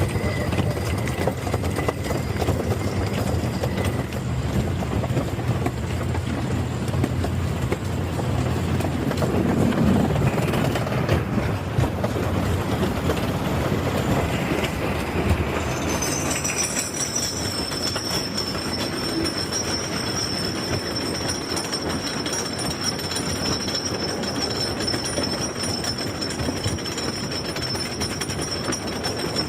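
Roller coaster train running along its track: a steady loud rumble of wheels on rail with rushing air. About halfway through the low rumble eases and a steady high whine comes in.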